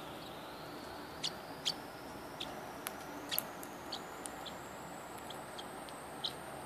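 Short, high chirps and ticks from a pet bird, about a dozen scattered irregularly over a steady background hiss.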